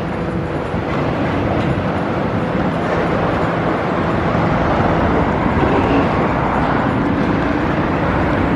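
Loud, steady mechanical rumble of city machinery or traffic, with no distinct knocks.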